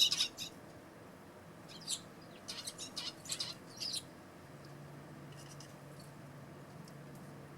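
Eurasian tree sparrows chirping: short, high chirps in quick clusters, mostly in the first half, with a few fainter ones later.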